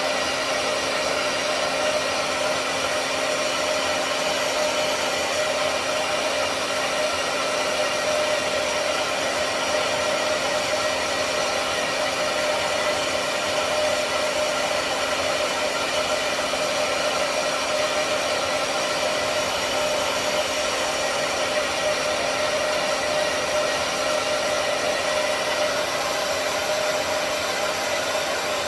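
Handheld hair dryer running steadily, an even blowing rush with a constant motor hum.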